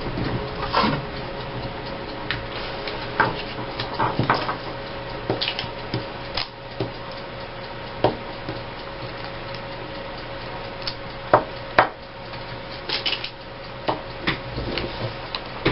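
Paper being handled and glued down on a table: scattered light taps, clicks and rustles, several a second at times, over a steady faint hum.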